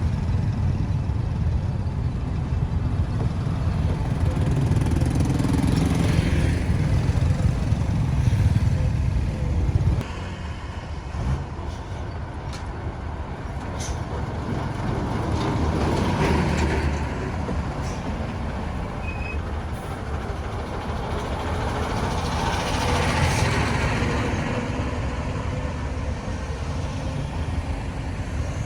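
Road traffic noise: a steady low rumble with vehicles passing one after another, each swelling and fading away. The level drops abruptly about ten seconds in.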